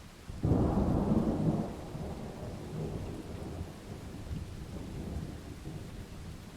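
Rain falling steadily, then a thunderclap about half a second in: a sudden loud crack that rolls into a long low rumble, fading but still grumbling at the end.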